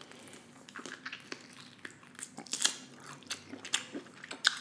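Close-miked chewing of food: wet smacking and irregular small crackles and clicks from the mouth.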